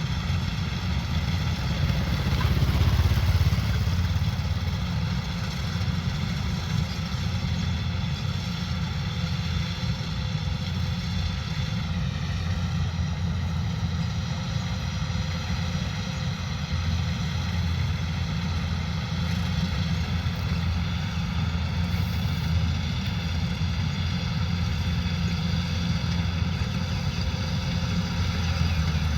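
Kubota combine harvester's diesel engine and threshing machinery running steadily while harvesting rice. It is a little louder a few seconds in, and its pitch dips briefly about twelve seconds in.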